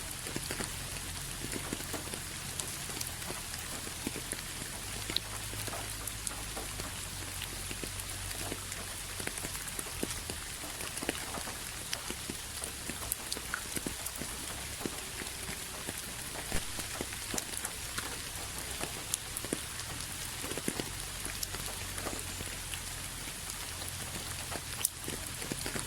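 Steady rain falling, an even hiss with many individual drops tapping close by at irregular moments.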